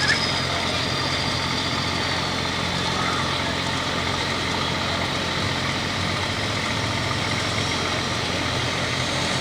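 Super farm class pulling tractor's turbocharged diesel engine running hard and steady under load as it drags the weight sled down the track.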